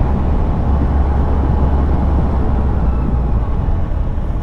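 Motorcycle riding at a steady pace: a 2001 Yamaha FZS1000 inline-four running under steady wind rumble on the camera microphone, with tyre and road noise.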